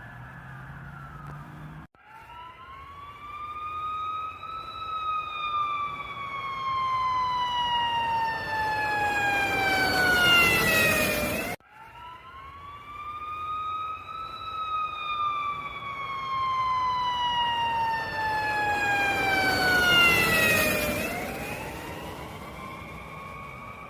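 Siren wailing in long slow cycles. The pitch climbs over two or three seconds, then sinks gradually over about seven seconds. This happens twice, with a sudden break between the two, and a third climb starts near the end.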